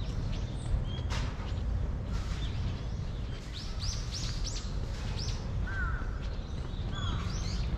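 Birds chirping in short, repeated arched calls, several in quick succession in the middle and a few lower falling calls near the end, over a steady low background rumble.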